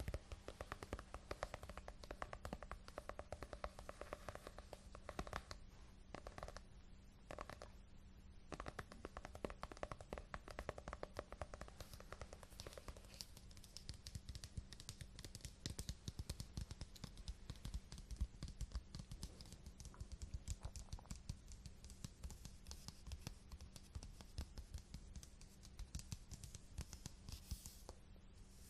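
Fingers tapping and scratching on a book's cover and spine, many quick light taps close to the microphone, thinning out briefly a few seconds in.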